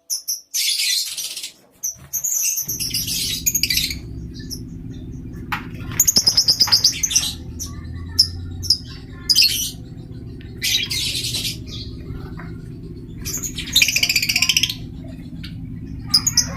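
Colony lovebirds giving shrill, harsh chattering calls in bursts of about a second, repeated every couple of seconds. A steady low hum runs underneath from about three seconds in.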